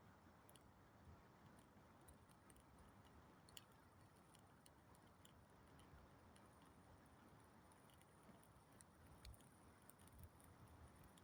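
Wood campfire burning faintly: a soft hiss of flames with scattered, irregular small crackles and pops.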